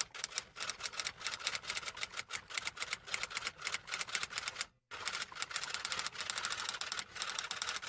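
Rapid typing clicks, several a second, with a brief stop about five seconds in.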